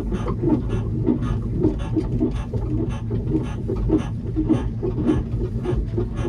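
Small pier train running along the pier: a steady low rumble with an even clacking rhythm of about three beats a second.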